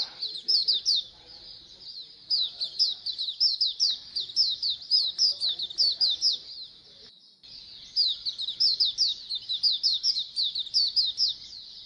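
A flock of white-eyes (pleci) chirping in dense, rapid runs of high, quick chirps that fall in pitch, with brief breaks about two seconds in and again about seven seconds in.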